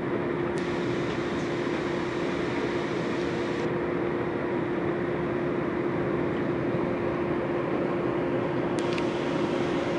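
Passenger train running, heard from inside the carriage: a steady rumble with a constant hum, and a faint click about half a second in and another near the end.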